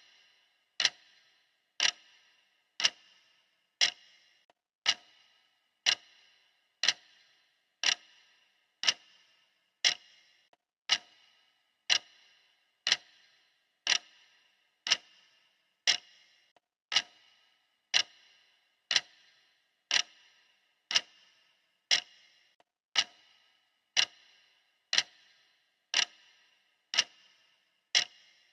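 Clock ticking steadily, one sharp tick about every second, each with a brief ring.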